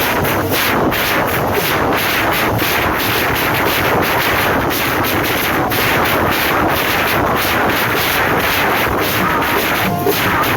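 Loud, continuous procession drumming: a steady beat of sharp hits about three a second over a dense din, with a brief lull about ten seconds in.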